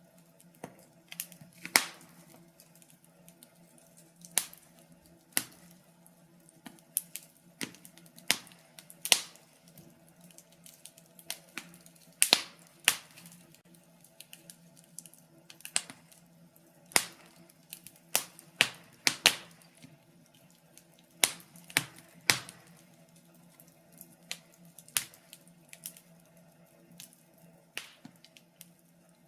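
Fireplace fire crackling: irregular sharp pops and snaps, sometimes in quick clusters, over a faint steady low hum.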